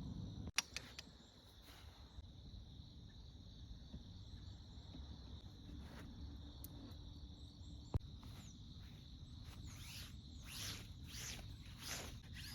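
Insects chirping steadily in the background, with a sharp click twice. Near the end come four or five quick rubbing or swishing strokes.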